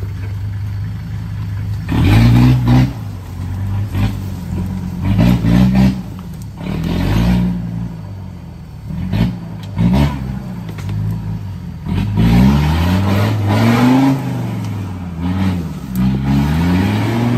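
Off-road Jeep's engine revved up and down in repeated short bursts as it crawls over rocks at low speed.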